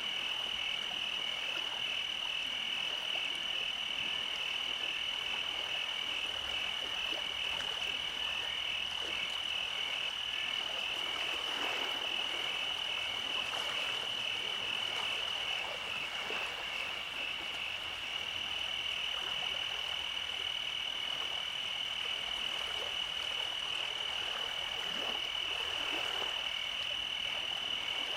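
Night chorus of frogs calling continuously in a steady, high-pitched, pulsing drone, with fainter scattered calls lower down.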